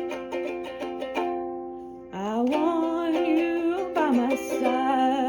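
A strummed acoustic string instrument plays chords that ring out. About two seconds in, a woman's voice joins with a long, gliding sung line without clear words over the chords, closing the song.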